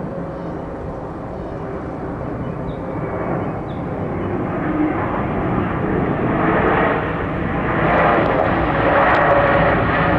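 Jet airliner's engines running steadily and growing louder over the second half as the aircraft comes closer.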